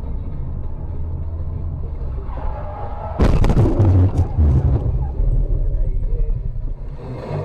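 Steady low rumble of a car driving, then about three seconds in a sudden loud collision: a crunching impact with several clatters over about two seconds, before the road rumble resumes.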